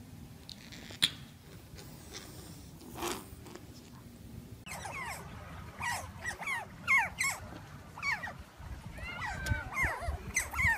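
Otters chirping: many short, high, falling squeaks in quick succession, beginning about five seconds in and continuing to the end. Before that there are only faint small sounds and a single sharp click about a second in.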